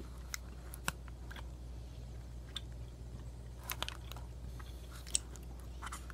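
A person chewing a bite of a chewy, frosted protein bar. A few faint crunches and clicks come now and then over a low steady hum.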